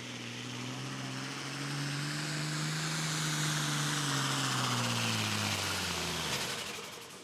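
Turbocharged 540-cubic-inch diesel of a Super Pro Farm pulling tractor running hard under load, its steady engine note topped by a loud high rushing hiss. About six seconds in, the engine pitch sags and the sound falls away as the pull comes to an end.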